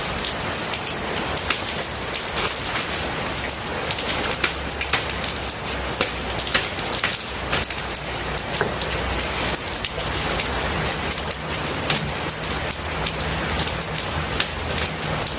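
Steady rain falling, with many close drops ticking sharply on a surface.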